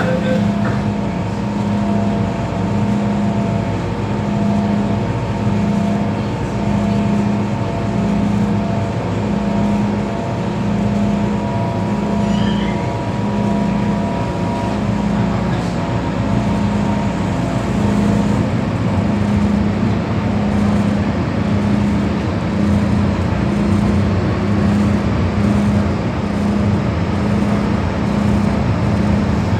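MTR M-Train electric multiple unit running at speed through an underground tunnel, heard from inside the car. The rumble is steady, with a low hum pulsing about once a second and a faint motor whine that fades about halfway through.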